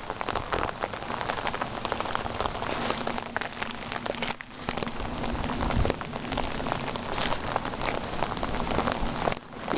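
Steady rain falling, a dense patter of drops hitting surfaces close by. It briefly drops away twice, about four and a half seconds in and near the end.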